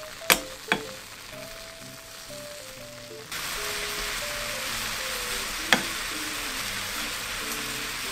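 Chicken breast pieces in a tandoori yogurt marinade sizzling as they fry in a pan, the sizzle turning louder about three seconds in. Metal tongs click against the food and pan twice near the start and once more a little past halfway.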